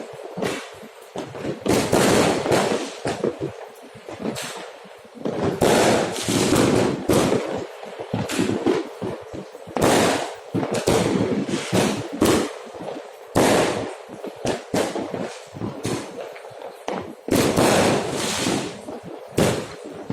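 Fireworks and firecrackers going off in a dense, continuous string of bangs and crackles, with louder bursts every few seconds.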